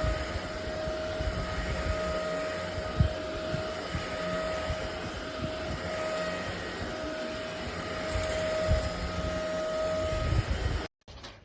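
ElecKeys K10 cordless stick vacuum cleaner running, a rush of air with a motor whine and occasional low knocks from the cleaner head. It cuts off suddenly near the end.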